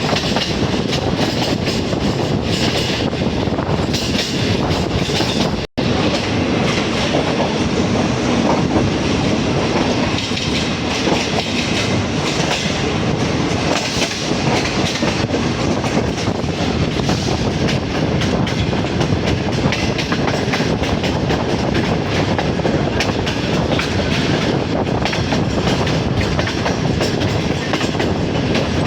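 Passenger train running at speed: a steady rumble of wheels on the rails with clickety-clack over the rail joints. The sound cuts out completely for an instant about six seconds in.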